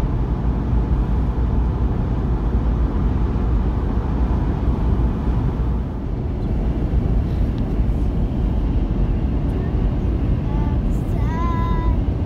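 Steady low road and engine rumble inside a moving vehicle's cabin while driving. Near the end a brief high-pitched vocal sound rises over the rumble.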